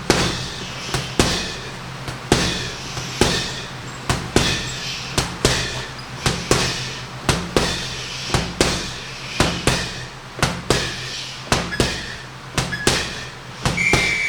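Punches landing on a heavy punching bag, a sharp thud roughly every half second to second, each followed by a short hiss, over a steady low hum. A short high beep sounds near the end.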